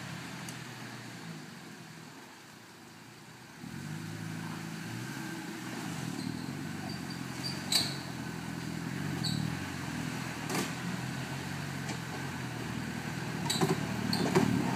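Land Rover Discovery engine running at low revs as the 4x4 crawls down a deeply rutted green lane, getting louder from about four seconds in as it comes closer. A few sharp knocks and clatters come through, near the middle and toward the end.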